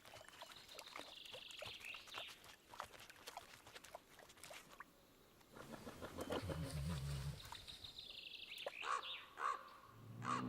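Wild outdoor ambience: small birds chirping at the start and again near the end, with a short low animal call a little past the middle.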